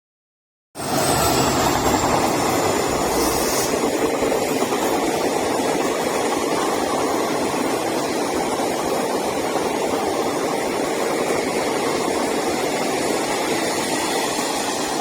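WDP-4D diesel-electric locomotive's two-stroke EMD 16-710 engine and train running at speed as an express passes through, a loud steady rumble. It starts abruptly about a second in.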